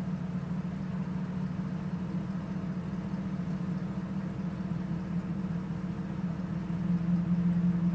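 1992 Cadillac Eldorado's 4.9-litre V8 idling with a steady low hum that grows louder near the end. It is running badly: the unstable idle is the fault being chased.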